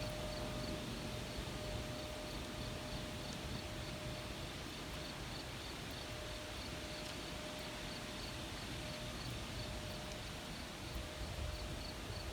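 Outdoor ambience with insects chirping in a steady, evenly repeating high pulse over a low rumble of wind and background noise.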